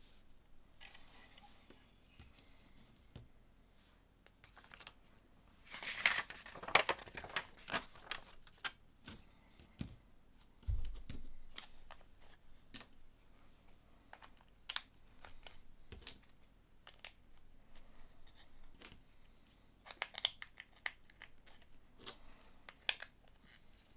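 LEGO bricks being handled and pressed together: a series of sharp plastic clicks and short rattles, busiest about a quarter of the way in and again near the end, with a soft low thump a little before halfway.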